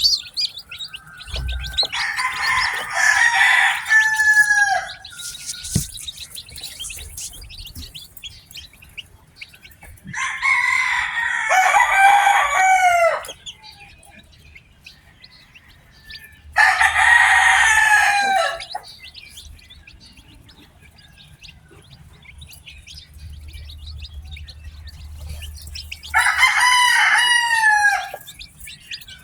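A rooster crowing four times, about seven seconds apart, each crow two to three seconds long and falling in pitch at the end. Newly hatched chicks peep faintly between the crows.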